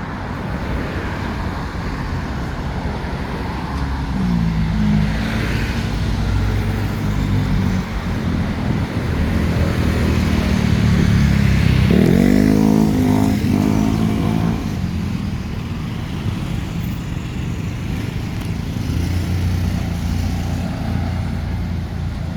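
Street traffic: motor vehicles passing close by, their engines rumbling low. One engine rises in pitch about four seconds in, and the loudest passes around twelve seconds in, pitch climbing as it accelerates by.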